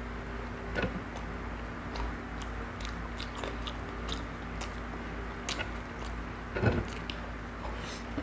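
Close-up eating sounds of a man eating with his hands: chewing with many small clicks, and two louder mouth sounds about a second in and near seven seconds, over a steady low hum.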